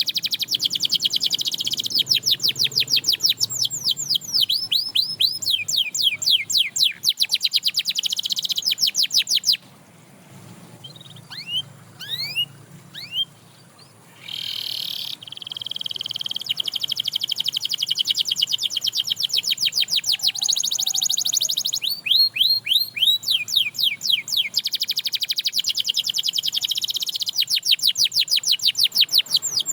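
Canary singing in long runs of fast, rapid-note trills. Near the middle it pauses for about four seconds with only a few single chirps, then goes back to trilling.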